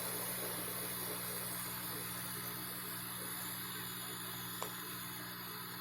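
Steady low mechanical hum of room background noise, with a single faint click about four and a half seconds in.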